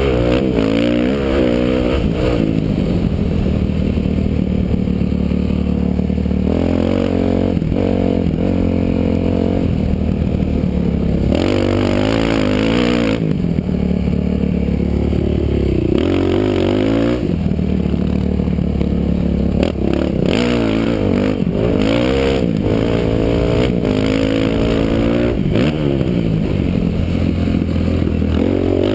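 Motocross dirt bike engine revving hard and dropping off again and again as the bike accelerates and backs off around the track, heard from a helmet camera with wind rushing over the microphone.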